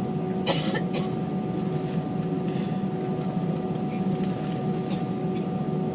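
Steady cabin noise of an Airbus A320 in flight: the engines and airflow make a low rumble with a few faint steady whining tones over it. A brief noise comes about half a second in.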